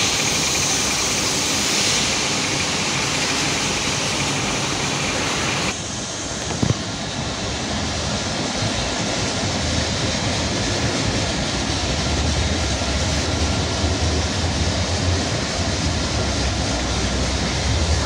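Steady outdoor hiss that changes abruptly near the six-second mark, with one short knock a second later. From about halfway through, the low rumble of an approaching diesel regional train, a PESA Link SA139 multiple unit, builds steadily.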